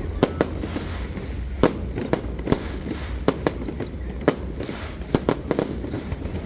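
Fireworks going off: an irregular run of sharp bangs and pops, about a dozen, over a low steady rumble.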